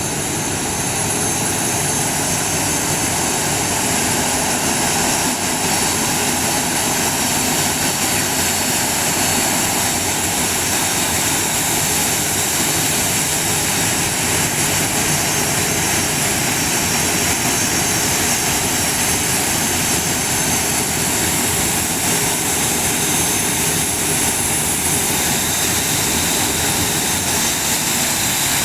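Airliner engines running steadily: a loud, even noise with a faint high whine on top.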